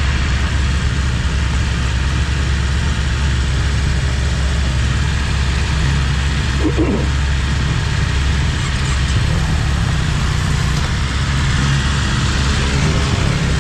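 BMW S1000RR's liquid-cooled 999 cc inline-four motorcycle engine idling steadily.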